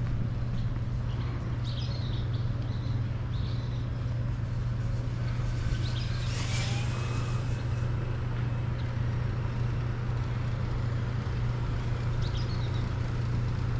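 Micro RC P-51 Mustang's electric motor and propeller whine passing close about halfway through, sliding in pitch as it goes by. A steady low hum is present throughout, and birds chirp briefly.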